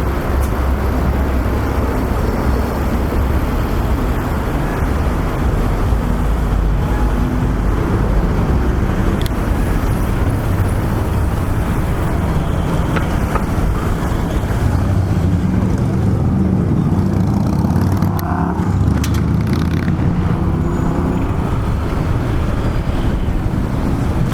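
Steady city road traffic noise: a continuous low rumble of passing cars and other motor vehicles.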